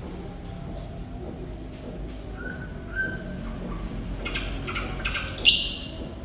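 Thrush nightingale singing: a phrase of dry clicks and short whistled notes at changing pitches that builds into loud rattling notes, loudest about five and a half seconds in.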